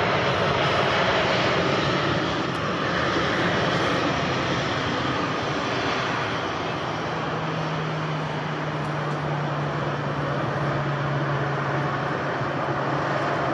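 Jet airliner engines, a loud steady broad noise. About halfway through a low steady hum joins it and holds.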